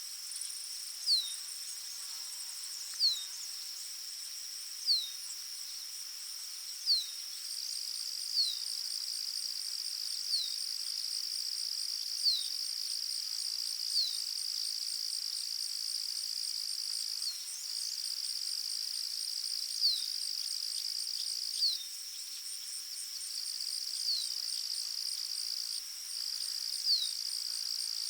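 Forest ambience of steady high insect trilling, like crickets, with a second insect's faster-pulsing buzz above it. A bird repeats a short downslurred whistle about every two seconds.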